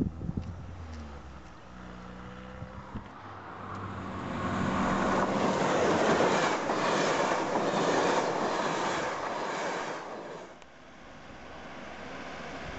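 Passenger train passing close by, its wheels clattering rhythmically over the rails; the sound builds from about four seconds in, is loudest for several seconds, then falls away shortly after ten seconds.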